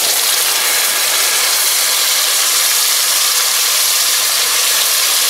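Tomatoes and onions frying in hot oil, a steady loud sizzle.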